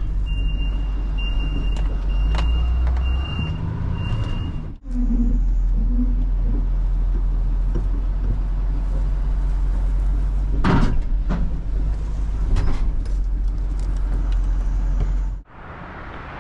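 Dump truck engine running with its reverse backup alarm beeping steadily, about one beep every 0.7 s, for the first four seconds as the truck backs up. The engine runs on after an abrupt dropout, with a couple of sharp knocks.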